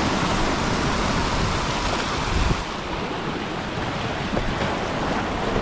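Sea surf washing against rocks, with wind buffeting the microphone; the sound eases a little about two and a half seconds in.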